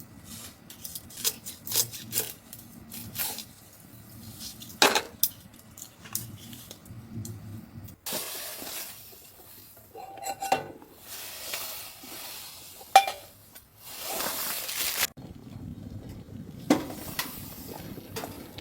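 Metal camp cookware being handled: irregular knocks and clinks, a few of them ringing briefly, with a stretch of hissing noise in the middle.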